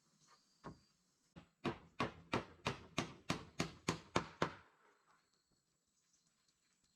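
Repeated blows of a tool on wood: two single knocks, then a steady run of about ten sharp strikes at roughly three a second that stops short.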